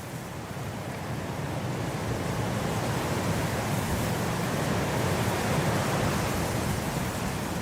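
Blizzard wind blowing steadily, swelling into a stronger gust over the first few seconds and then easing slightly.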